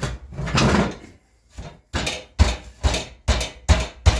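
Metal stovepipe section being handled and fitted into place: a scraping rush, then a run of about six sharp knocks about half a second apart.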